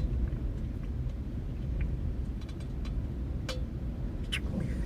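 Gusty wind buffeting the microphone, a steady low rumble, with a few faint short clicks late on.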